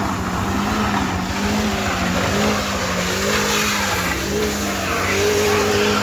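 Heavy truck engine running under load, with a steady droning note that wavers slightly and a higher whine that rises and falls over it.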